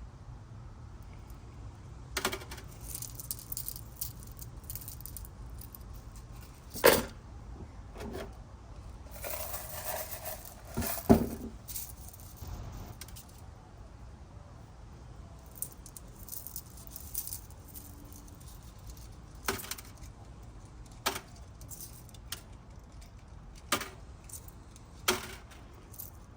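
Rough opal stones clicking and clacking against each other and a container as they are picked out and handled, in scattered knocks with a small rattling cluster near the middle. Two clacks, a third of the way in and just before the middle, are much louder than the rest. A faint low hum runs underneath.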